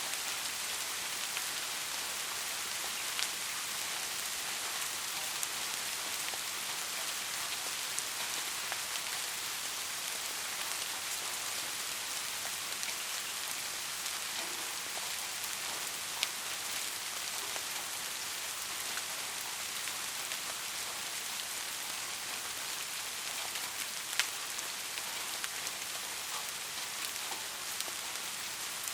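Steady rain falling in a dense, even hiss, with a few sharper individual drop hits standing out now and then.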